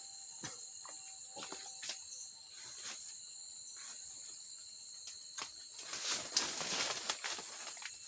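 Steady high-pitched drone of insects with scattered small clicks. About six seconds in comes a louder burst of rustling that lasts about a second.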